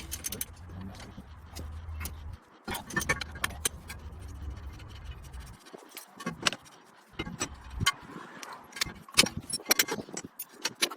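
Metal hand tools and hardware clinking and clicking irregularly while the strut-to-hub nuts are worked loose on a car's front suspension. A low hum runs underneath and stops about halfway through.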